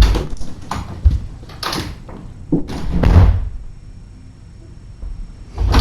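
A series of dull thumps and bangs, like a door being knocked on or banged, about five of them at uneven gaps, loudest at the very start, about three seconds in and near the end.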